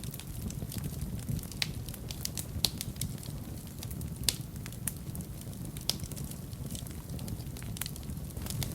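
Fire burning in a fireplace, crackling with irregular sharp pops over a low steady rumble of the flames, with a few louder pops among them.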